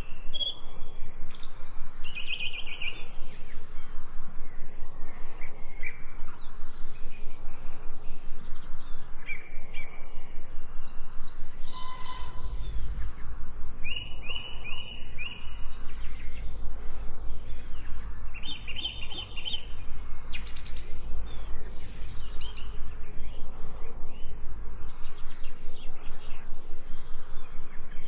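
Several forest birds chirping and singing, with short repeated calls over a steady outdoor background.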